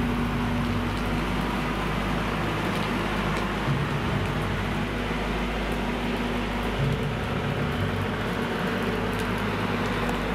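Steady mechanical hum of a passenger train standing at the platform, with a constant low tone and a low rumble that swells and fades every few seconds.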